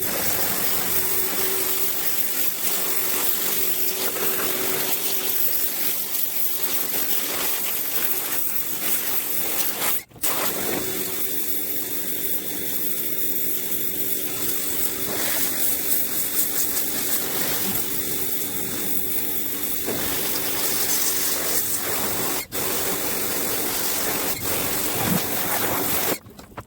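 Pressure washer spraying water onto a truck's body to blast off dirt and mildew: a steady loud hiss of spray over the washer's humming pump. The spray cuts out for a moment twice and stops just before the end.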